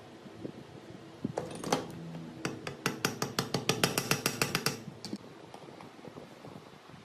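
Metal being struck in a fast run of sharp taps, about seven a second for roughly two seconds, with a ringing metallic tone under them. A few single knocks come before the run.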